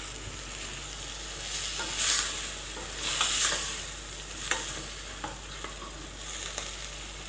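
Shelled green fava beans sizzling as they sauté with garlic in oil in a pot, a steady hiss that swells twice as they are stirred, with a few sharp knocks of the stirring utensil against the pot.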